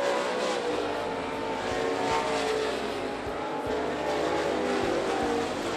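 Several dirt track race car engines running at speed as the field circles the track: a steady layered engine drone whose pitches glide slightly up and down as cars pass.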